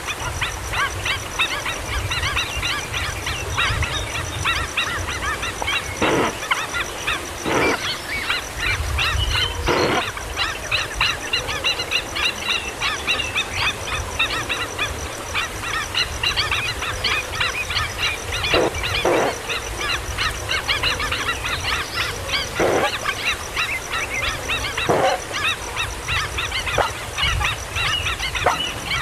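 Kingfisher chicks calling: dense, rapid chirping throughout, with louder harsh calls breaking through several times.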